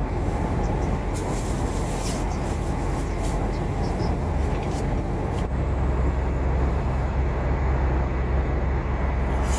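Cargo truck heard from inside the cab while driving at highway speed: steady engine drone and tyre-on-road rumble, the low drone growing stronger about halfway through.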